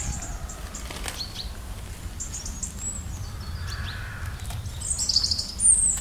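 Small songbirds chirping in short high calls, a few just after two seconds in and the loudest near the end, over a steady low outdoor rumble.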